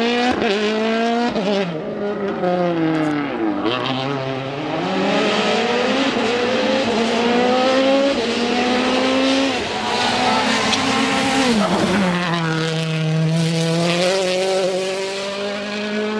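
A 2014 World Rally Car's turbocharged four-cylinder engine at full throttle on a rally stage, its pitch climbing through the gears with quick shifts. The pitch drops sharply twice, about three and a half seconds in and again near twelve seconds, as the car brakes and downshifts for corners, then climbs again.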